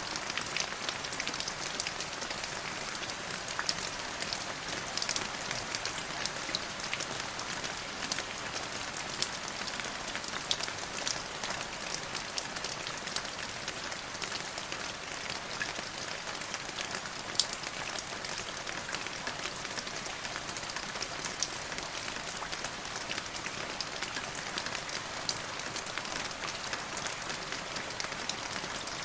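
Steady rain falling, an even hiss with many small drops ticking on a surface throughout.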